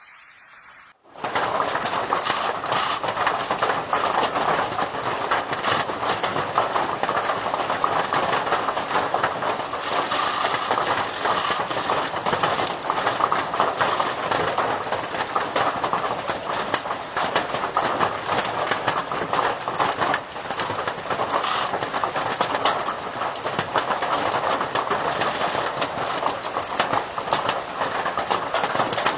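A dense, continuous din of many birds calling at once, setting in suddenly about a second in.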